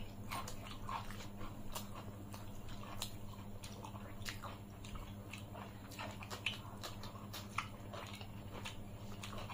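Close-miked mouth sounds of people eating rice and curry with their hands: chewing and wet lip smacks, with many irregular sharp clicks.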